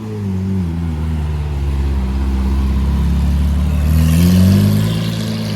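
Lamborghini engine: its note falls at first and holds at a low, steady rev, then revs up with a rising pitch about four seconds in before easing off near the end.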